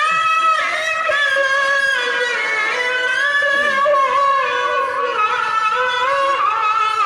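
A qari chanting Qur'anic recitation in a very high, powerful voice, holding long ornamented notes that waver and slide, in maqam Rast at its third, highest pitch level.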